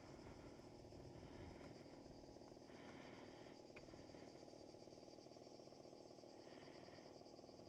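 Near silence: a faint, steady background with no distinct sound.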